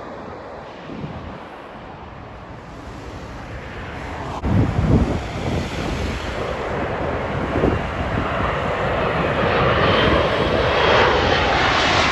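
Jet airliner engines, a broad roar that builds steadily louder over the second half as the aircraft approaches. A few low rumbling gusts of wind hit the phone's microphone about four to five seconds in.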